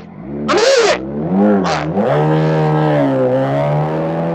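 Motorcycle engine accelerating, its pitch rising, dipping about three seconds in, then rising again. Two short hissy bursts sound in the first two seconds.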